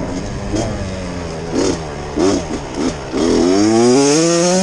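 Off-road motorcycle engine revving: a few short throttle blips, then a long rise in revs about three seconds in that holds high.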